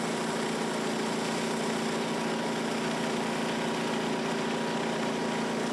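Gas engine of a 3,500 PSI, 5.5 gallon-per-minute pressure washer running at a steady, even hum.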